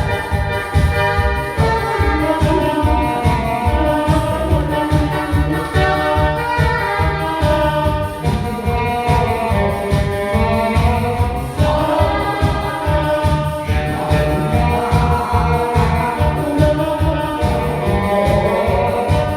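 A Korean trot song sung by a woman over a backing track with a steady, fast beat.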